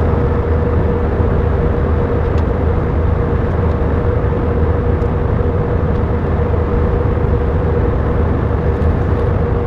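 Airbus A319 cabin noise after landing: the engines and air conditioning running in a steady loud rumble with a constant hum, as the airliner rolls to the gate.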